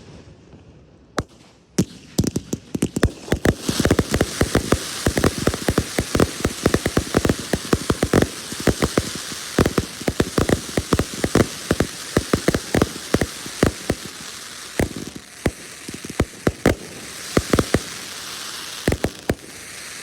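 Fireworks barrage: a rapid run of dozens of sharp bangs over a continuous crackling hiss. It starts with a few scattered reports, builds to a dense volley about two to four seconds in, and keeps going at that pace.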